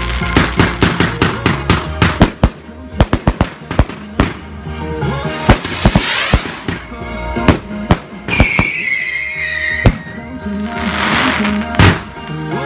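Fireworks going off: a run of sharp bangs and crackles, two hissing whooshes, and a whistling firework whose whistle falls slightly over about two seconds, near the middle. Music plays underneath.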